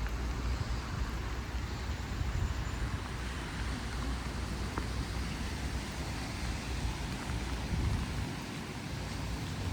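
Steady outdoor background noise with a heavy low rumble and a fainter hiss above it.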